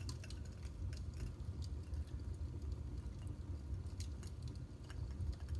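A person drinking water, with faint small clicks and swallowing sounds scattered over a steady low hum.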